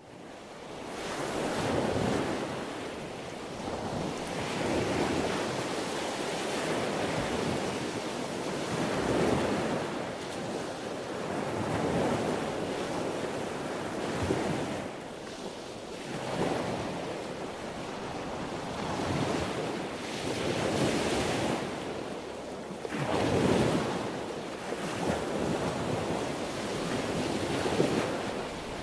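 Sea waves breaking and washing on the shore, the surf swelling and ebbing every few seconds.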